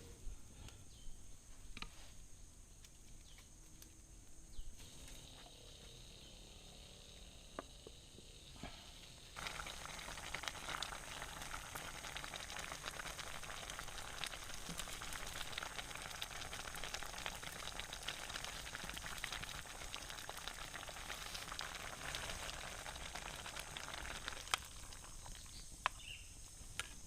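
Food frying in hot oil, a dense sizzling crackle that starts abruptly about ten seconds in and stops a few seconds before the end, with a few scattered clicks before it.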